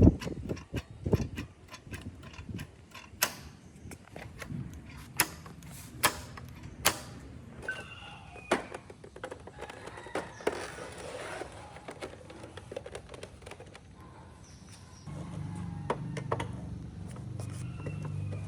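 Irregular sharp clicks and light knocks, as of parts and hand tools being handled. A steady low hum comes in about fifteen seconds in.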